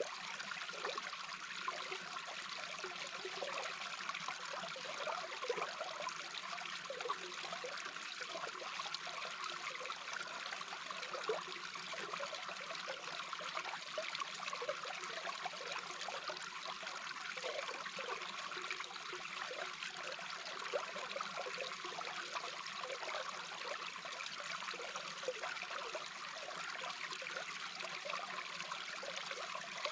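Babbling brook recorded underwater: a steady hiss of moving water with many short, low pops scattered through it.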